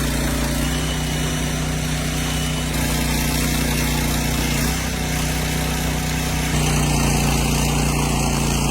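Small gasoline engine of a hydraulic log splitter running steadily at a constant speed. Its note shifts slightly a few times and gets a little louder about two-thirds of the way through.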